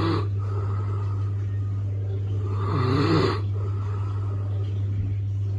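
A sleeping dog snoring, with a snore about every three seconds, over a steady low hum.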